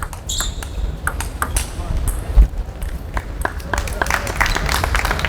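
Table tennis balls clicking off bats and tables, many irregular hits in quick succession, over background chatter in the hall. There is a loud low thump about two and a half seconds in and a brief high squeak near the start.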